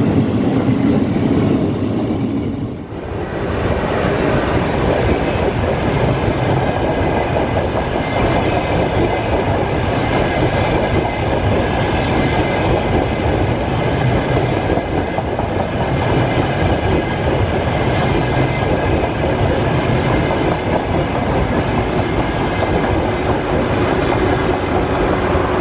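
Frecciarossa high-speed electric train passing along the platform: a steady rumble of wheels on the rails, with faint steady whining tones over it. About three seconds in the sound drops briefly before the train noise settles in.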